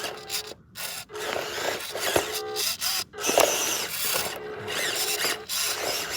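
Small electric motor and gearbox of a 1/18-scale RC crawler whining in repeated short throttle bursts, with scrabbling and grinding as the truck tries to climb a rock it is stuck on.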